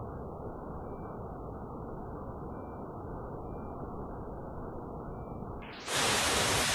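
Rushing water, a steady muffled rush that about six seconds in turns suddenly louder and full and hissing.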